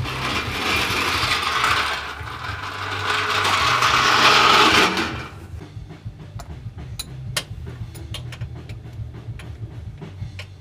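Tools at work on a pickup truck during an engine pull: a loud rushing noise in two swells for about five seconds, then a run of scattered light clicks over a steady low hum.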